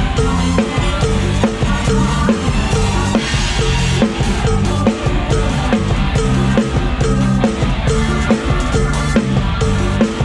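Live band music led by a drum kit keeping a steady, fast beat, with a stepping bass line and melody instruments over it.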